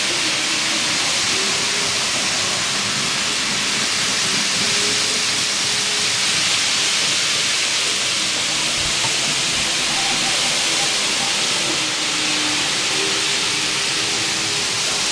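Train running, a steady rushing hiss with a faint wavering whine underneath.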